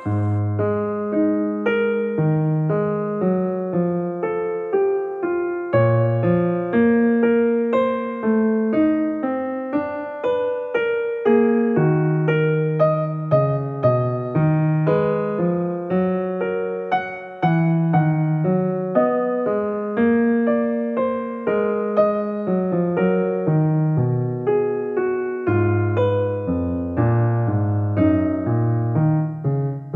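Solo piano music: melody and chords played continuously, each note struck and then fading.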